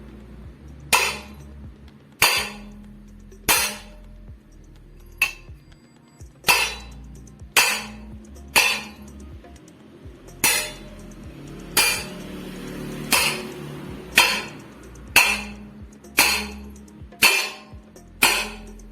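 Hammer blows on a ceiling fan's metal bearing and housing, knocking the bearing out: about fifteen sharp metallic strikes, roughly one a second, each ringing briefly.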